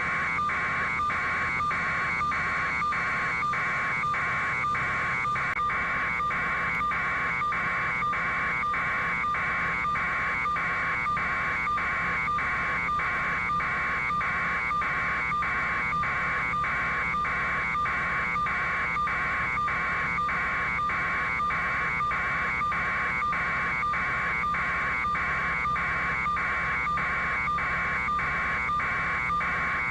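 An electronic warning buzzer sounding in a fast, even pulse, a little over two buzzes a second, without a break.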